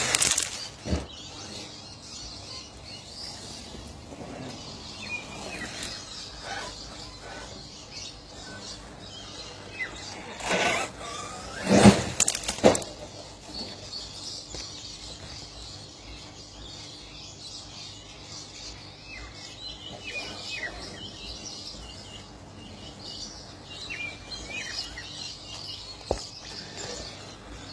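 Birds chirping against outdoor background noise, broken by a few loud, brief noisy bursts: one right at the start and two close together about eleven to twelve seconds in.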